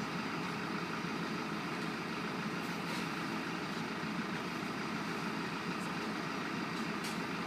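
Fire engine's pump engine running steadily under load, an even drone with a rushing hiss.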